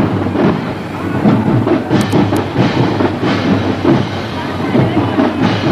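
High school marching band playing, with a driving drumline beat.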